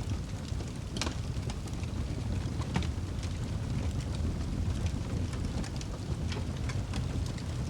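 Wood fire burning in a fireplace: a steady low rumble of flames with scattered crackles and pops from the burning logs, a sharper pop about a second in and another near the three-second mark.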